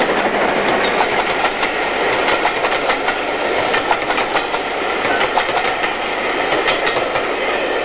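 Train coaches rolling past at steady speed, their wheels clicking and clattering over the rail joints.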